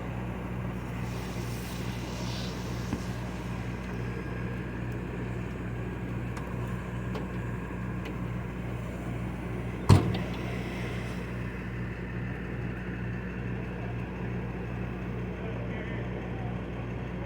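A motor vehicle engine idling steadily, with one sharp knock about ten seconds in.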